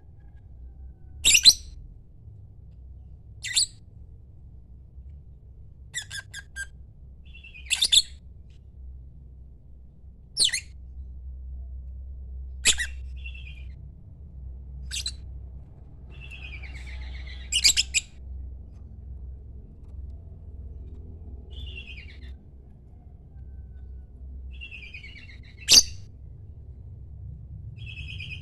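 Lovebird giving short, shrill calls every few seconds, about nine in all, with softer chattering chirps in between.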